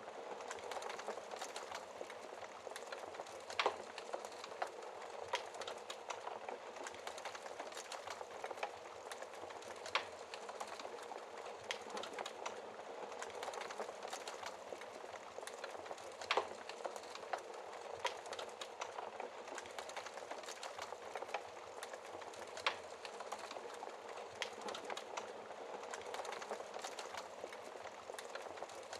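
Wood fire burning in a fireplace: a steady crackle with frequent small snaps and a few louder pops from the burning logs.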